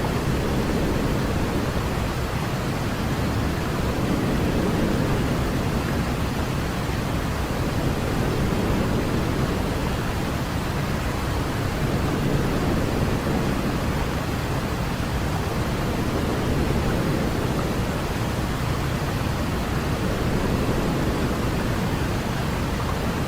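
Continuous white noise for baby sleep, a steady rushing hiss heavier in the low end, swelling slightly every few seconds.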